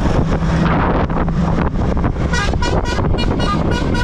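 Motorbike running along a road, its engine a steady low hum under wind buffeting the microphone. From about halfway through comes a rapid series of short high-pitched tones, about five a second.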